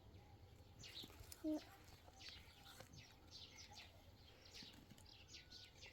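Faint, scattered short chirps of small birds, with one brief louder voice-like sound about a second and a half in.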